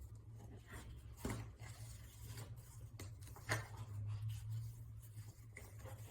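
Quiet small-room tone with a steady low electrical hum, broken by a few faint rustles and light taps, such as a book being handled.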